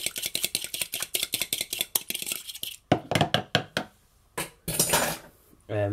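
Fork beating egg and water in a bowl: rapid, even clicking of the utensil against the bowl, about eight strokes a second. It stops after about two and a half seconds and gives way to a few separate, louder knocks and clinks.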